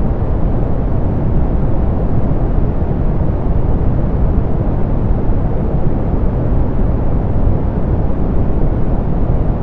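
Soft pink noise: a steady, even hiss-rumble weighted toward the low end, with no change or events.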